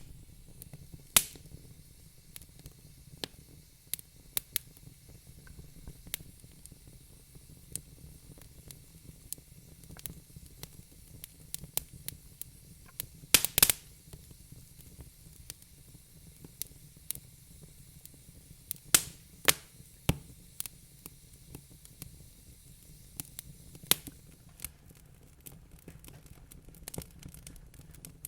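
Wood fire crackling in a fireplace: irregular sharp pops and snaps over a faint steady low rumble, with a loud cluster of pops about halfway through.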